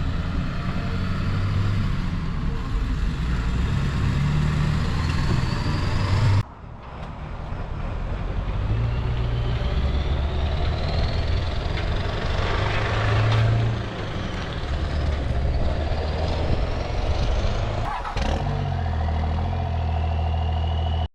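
A second-generation Cummins 5.9 L inline-six turbo-diesel in a Ram 3500 dually pickup is running under way. A high whine rises in pitch several times as the engine pulls, and the sound breaks off abruptly twice.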